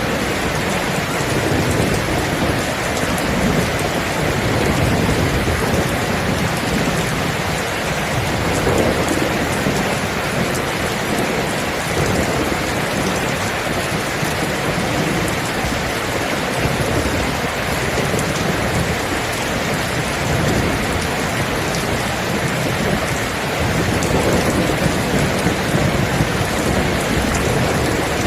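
Steady heavy rain with low rolls of thunder rumbling underneath, swelling and fading every few seconds.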